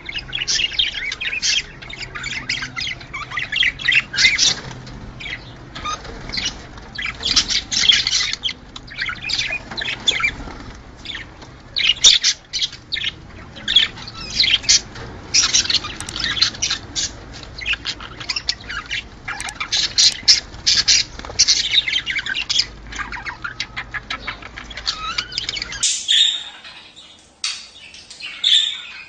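A group of budgerigars chattering: rapid warbling chirps mixed with squawks, the sound budgie keepers play to stimulate breeding. A faint low hum underneath cuts out abruptly near the end.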